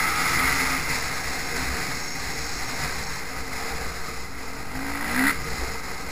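Motocross bike engines running under heavy wind noise on the microphone, with a short rising rev about five seconds in.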